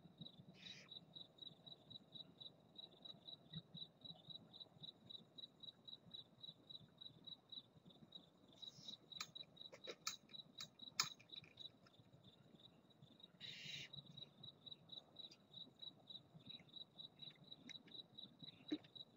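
A cricket chirping steadily, a faint high pulsed trill about four chirps a second. A few short raspy hisses come over it, about a second in, near the middle and a longer one past two-thirds of the way, along with a few sharp clicks.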